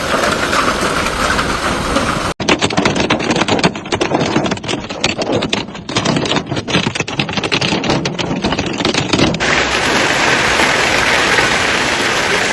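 Heavy storm downpour of rain and hail with wind, the sound changing abruptly twice; through the middle stretch dense, rapid clicking, like hailstones striking hard surfaces, rattles over the rain.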